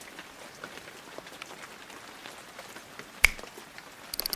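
Light rain falling in a steady faint patter of small drops, with one sharp click about three seconds in and a quick run of clicks near the end.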